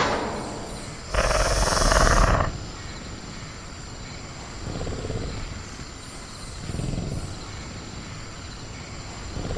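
Sound-effect velociraptor in a cage: a loud, harsh roar-like burst about a second in, then two softer low growling breaths. A thin, steady high insect drone, like crickets, runs underneath.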